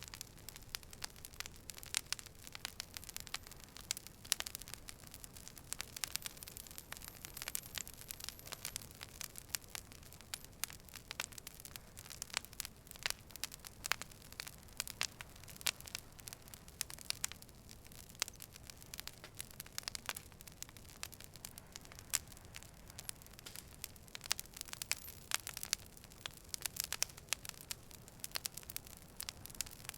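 Campfire burning: irregular sharp pops and crackles of burning wood, several a second, over a soft steady hiss.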